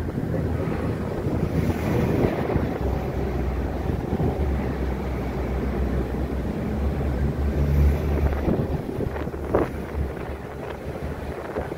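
Northern Ireland Railways diesel multiple unit passing beneath and pulling away, a steady low engine drone that swells about two-thirds of the way through and then starts to fade, with wind buffeting the microphone.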